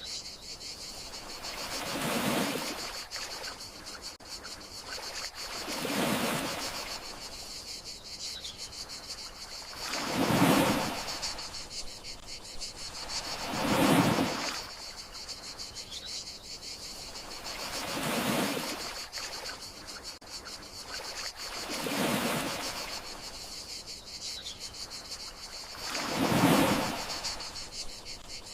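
Gentle sea waves washing in and drawing back about every four seconds, over a steady high chirring of crickets.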